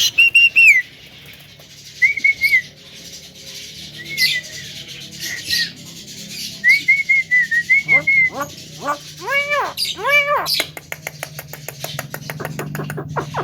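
A Javan myna (jalak kebo) calling. It gives several short whistled notes, then a series of harsh arched calls about eight seconds in, then a fast run of clicking notes near the end.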